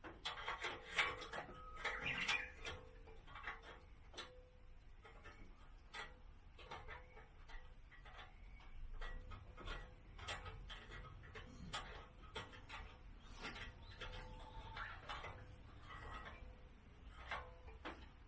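Hand tools and parts being handled: scattered clicks, taps and rubbing, busiest and loudest in the first few seconds.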